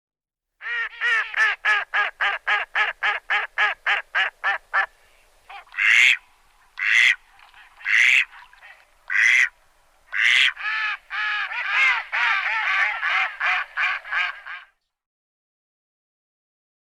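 Domestic duck quacking: a fast run of about four quacks a second, then five louder single quacks about a second apart, then a dense run of rapid quacks that stops about 15 seconds in.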